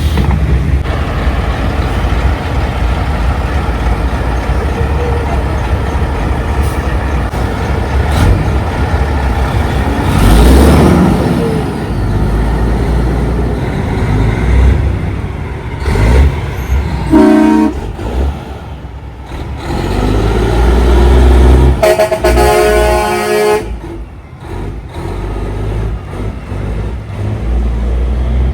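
Semi-truck engines running as big rigs roll past, with a short horn blast about two-thirds of the way through and a longer horn blast a few seconds later.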